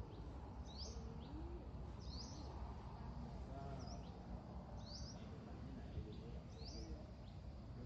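A songbird repeating a short, high, upward-sweeping chirp about every one and a half seconds, faint over a steady low rumble.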